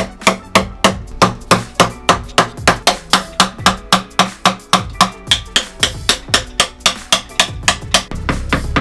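Hammer striking the steel oil pan of a Chevy 350 small-block, about three ringing metallic blows a second, knocking it loose at the corners. The blows stop near the end, leaving a low steady hum.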